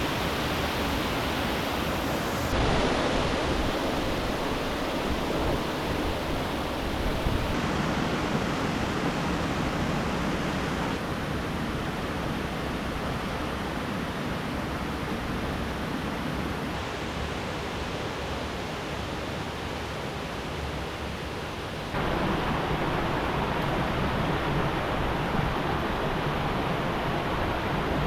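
Steady rush of river water, shifting abruptly in loudness and tone several times.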